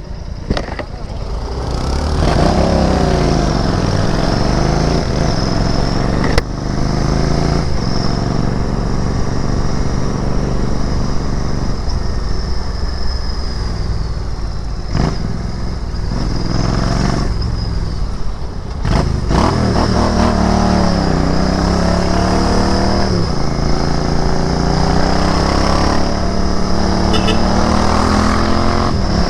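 Royal Enfield Interceptor 650's 648 cc parallel-twin engine on the move. Its pitch climbs and falls as the bike accelerates and eases off, with a few short breaks, then holds steady near the end.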